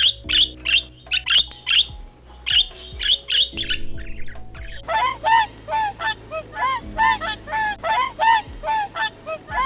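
Birds calling: quick, sharp high calls about three a second, then from about five seconds in a different bird's repeated lower calls, about two a second.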